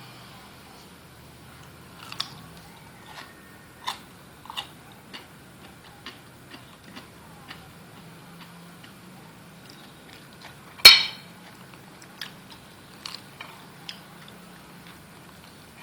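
Light, scattered clicks and taps of kitchen utensils and dishes, with one sharp, ringing clink about eleven seconds in, over a low steady hum.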